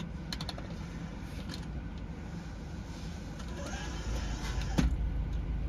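Car engine idling, heard from inside the cabin as a steady low rumble. A few light clicks come in the first second, and a single sharp knock near the end.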